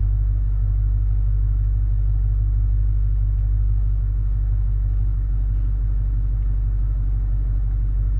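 Dodge Challenger R/T's 5.7-litre Hemi V8 running steadily, a constant low exhaust drone with no change in engine speed, its end mufflers deleted.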